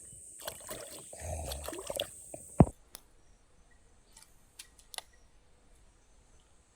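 Steady high-pitched insect chorus with irregular splashing and handling noises over it, ending abruptly with a sharp thump. A quieter background with a few faint clicks follows.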